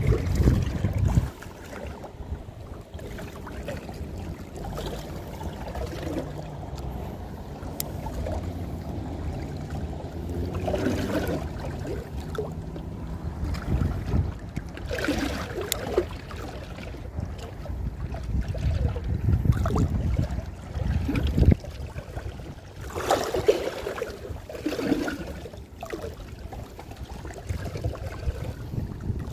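Sea water washing and sloshing with wind rumbling on the microphone, steady throughout, with a few short louder splashy patches.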